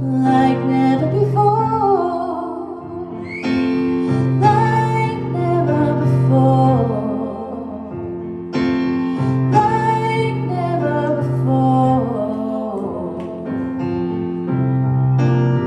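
A song with a woman singing over a piano or keyboard accompaniment, held notes on a steady bass line.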